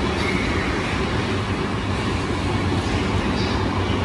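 Steady hum and noise of a JR E235 series 1000 electric train standing at an underground platform with its doors open, with no clear changes or sudden sounds.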